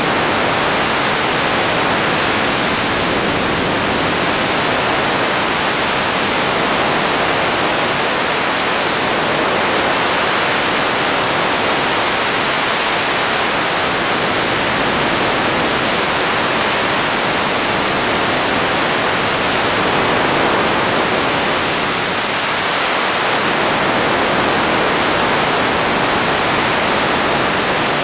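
Radio static: a steady, even hiss of noise with no tones or voices in it, holding the same loudness throughout.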